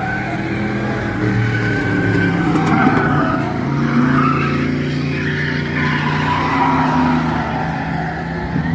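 Bomber-class stock cars racing around the track, several engines running hard at once, their pitch rising and falling as they accelerate out of the corners and pass.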